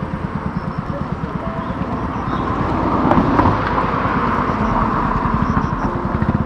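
Motor vehicle engine running with road and wind noise while on the move, with a fast, even low pulsing and a swell of noise about halfway through.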